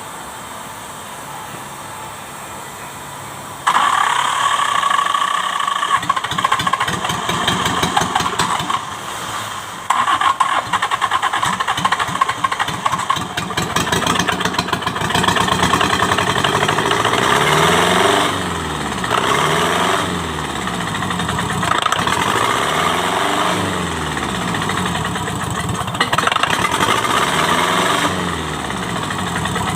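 Kubota V1501 four-cylinder diesel engine starting up suddenly about four seconds in, then running with its revs rising and falling several times in the second half. The engine is hard starting, which the mechanic puts down to a stuck injection pump.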